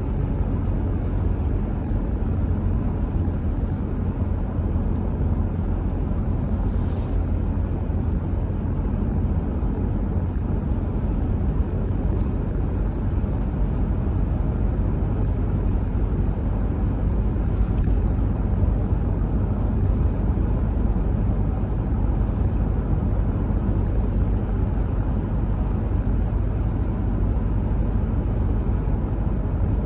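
Car driving steadily along a road: a constant low rumble of tyre and engine noise.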